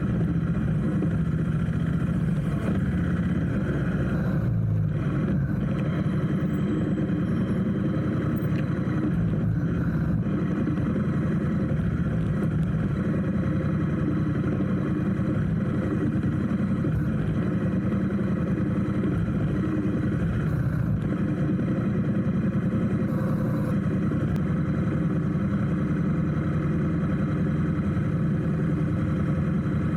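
Motorcycle engine running steadily while riding, with road and wind noise and no clear revs or stops.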